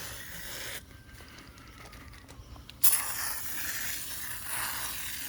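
Aerosol can of foaming coil cleaner spraying with a steady hiss. The spray stops for about two seconds and then starts again sharply, near the three-second mark.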